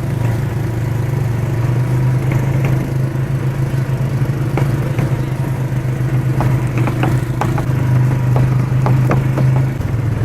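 ATV engine running steadily at speed, with scattered short knocks and rattles over it.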